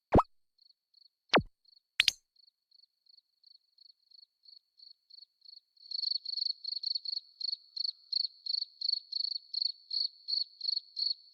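A high, thin chirping that pulses about three times a second, faint at first and much louder from about six seconds in, which the uploader calls snoring. Three sharp clicks come in the first two seconds.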